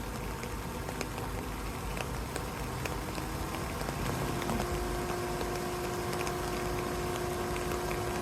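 2013 Volkswagen Jetta running with the noise problem the owner is recording: a steady mechanical rumble with faint clicks about once a second. About four seconds in, a steady hum joins and holds.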